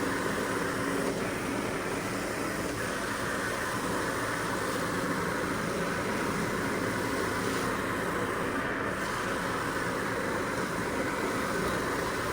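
Steady, unbroken mechanical noise, a constant rush that neither rises nor falls.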